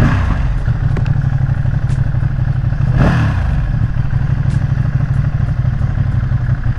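Ducati Streetfighter V2's 955 cc V-twin engine running steadily under way, its pitch briefly dropping and climbing again about three seconds in.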